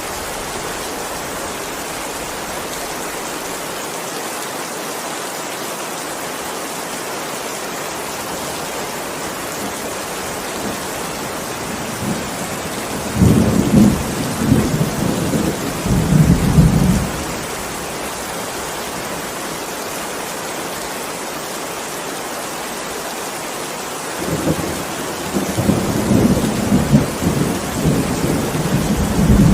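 Steady heavy rain with two rolls of thunder: one rumbles for a few seconds around the middle, and another builds and rumbles near the end.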